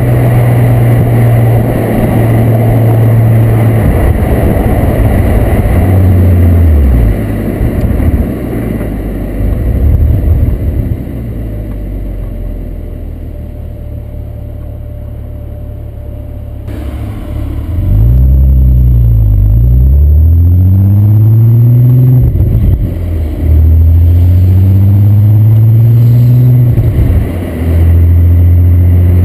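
Volkswagen Corrado's 24-valve VR6 engine through a Techtonics Tuning exhaust, on the road. It holds steady high revs and then eases off with its pitch falling. After a quieter stretch it pulls hard through the gears, its pitch rising in each gear, with two upshifts.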